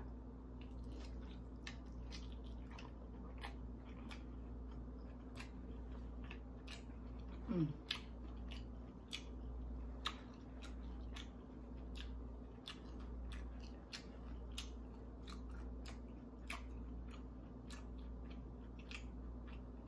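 Close-miked chewing of breaded, deep-fried lobster tail: small wet mouth clicks and crunches at irregular intervals. About seven and a half seconds in there is one short falling 'mm' from the eater, all over a steady low hum.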